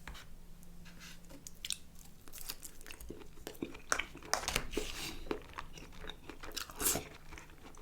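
Close-miked chewing of grilled chicken kebab: quiet at first, then from about two seconds in a run of wet mouth clicks and smacks.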